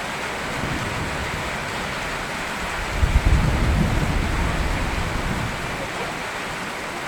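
Steady rain, with a low rumble of thunder about three seconds in that peaks sharply and then fades over the next couple of seconds.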